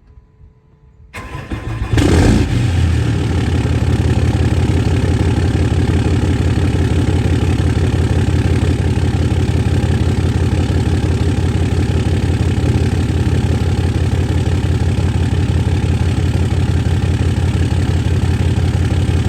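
2008 Dodge Ram 2500's 6.7 L Cummins turbo-diesel inline-six, straight-piped through a 4-inch exhaust, cranking about a second in and catching with a loud surge, then idling steadily with an even rapid exhaust pulse: a cold start.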